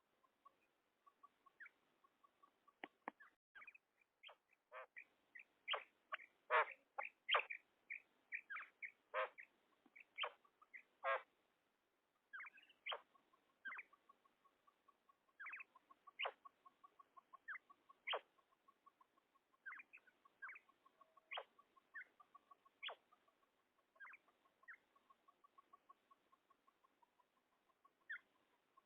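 Female common quail calling: many short, sharp calls at uneven intervals, over a faint fast ticking that runs through much of the recording.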